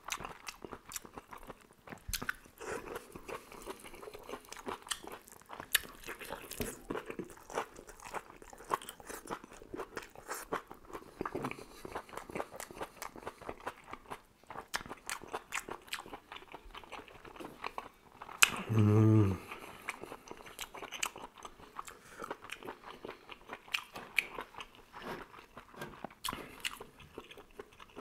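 Close-miked chewing and biting of cooked squid and vegetables: a steady run of small wet clicks and crunches. About nineteen seconds in there is a short hummed "mmm" from the eater.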